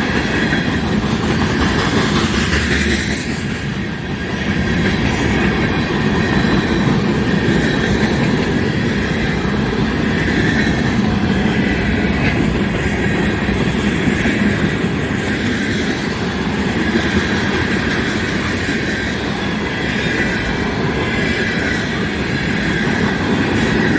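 CN mixed-freight train's cars rolling past on the rails: a steady loud rumble of wheels on track with clickety-clack over the rail joints and a thin high wheel squeal running under it.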